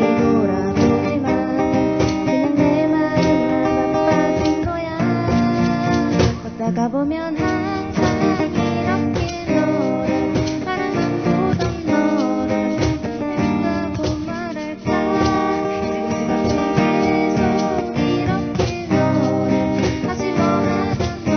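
Acoustic guitar strummed steadily, accompanying a pop song.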